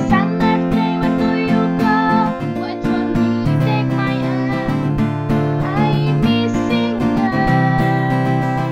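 Music: strummed acoustic guitar chords with a melody line over them.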